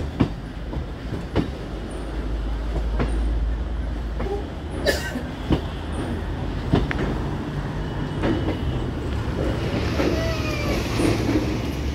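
Suburban electric multiple-unit local train running, heard from on board: a steady low rumble with sharp clacks at uneven intervals as the wheels pass over rail joints and points.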